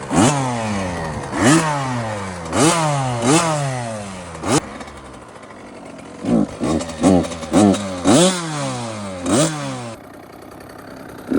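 A small two-stroke youth dirt bike engine being revved in short throttle blips, about a dozen times: each rev climbs quickly and falls back slowly to idle, as the rider gets ready to pull away.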